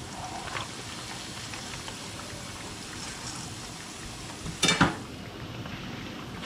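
Hot oil sizzling steadily around food deep-frying in a pan. About two thirds of the way through comes one sharp knock with a brief ring, the loudest sound.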